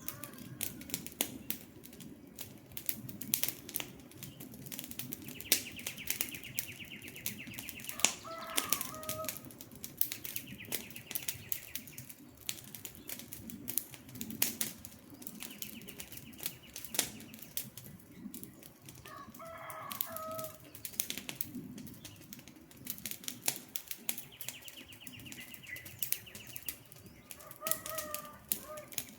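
Wood fire crackling, with frequent sharp pops over a steady low rush of flames. A bird gives a short call four times, and a high buzzing trill comes and goes in between.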